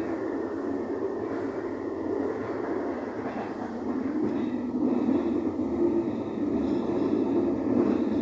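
Interior running noise of a moving Italian medium-distance passenger coach: a steady rumble of wheels on rail and running gear, getting a little louder about halfway through.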